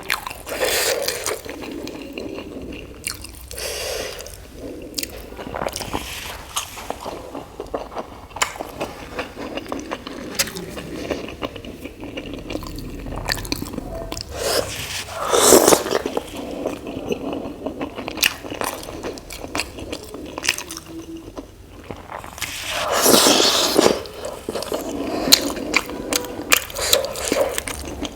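Close-up eating sounds of soft idli dipped in sambar being chewed, with wet mouth noises, many short clicks and scrapes. There are two louder, longer noisy bursts, one about halfway through and another a few seconds later.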